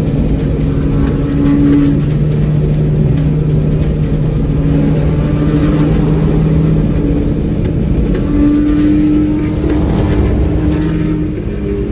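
Car engine running steadily while driving, its droning tone stepping up in pitch a few times.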